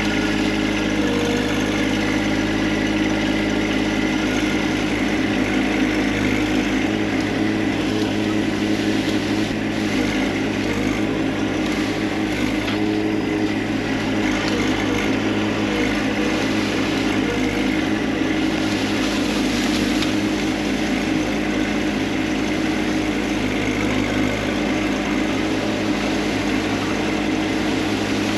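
Tractor engine running steadily under load, a constant drone with no change in speed.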